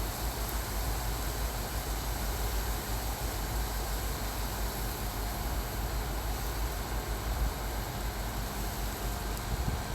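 Steady road and engine noise of a moving vehicle, heard from inside: a constant low rumble with an even hiss over it.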